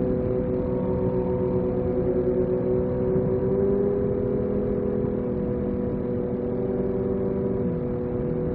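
Yamaha MT-09 SP's three-cylinder engine with Akrapovic exhaust running at steady cruising revs. The pitch rises a little partway through and drops near the end as the throttle eases.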